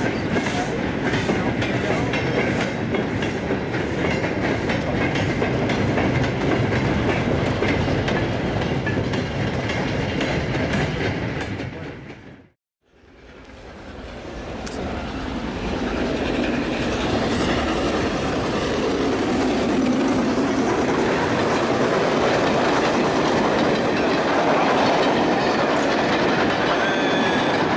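Railway goods wagons rolling past, their wheels clicking over the rail joints. The sound fades out about halfway through, and then a second train of vans passes, its rolling noise building up to a steady level.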